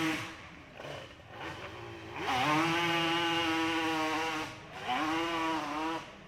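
Quad (ATV) engine revving hard on a hill-climb run, with a high, buzzing note typical of a two-stroke like the Yamaha Banshee. It is held wide open in long pulls, with throttle lifts about half a second in and briefly near four and a half seconds, and it fades out near the end.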